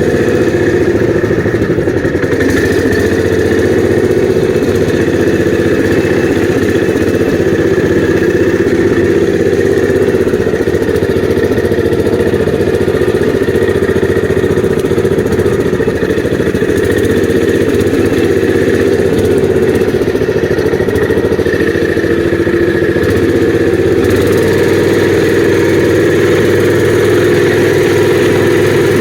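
An engine running steadily at an even speed, close by, with no revving.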